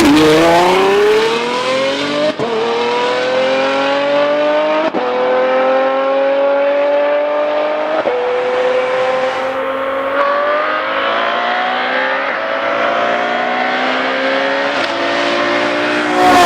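Ferrari F12 Berlinetta's V12 through a Novitec Rosso race exhaust, accelerating hard through the gears: the engine note climbs, drops sharply at a gear change about two, five and eight seconds in, then climbs slowly again.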